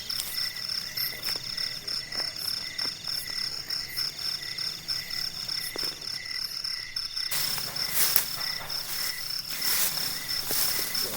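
Night chorus of crickets and frogs: several steady, rapidly pulsing high trills at different pitches. From about seven seconds in, a louder rustling hiss with a few sharp clicks joins them.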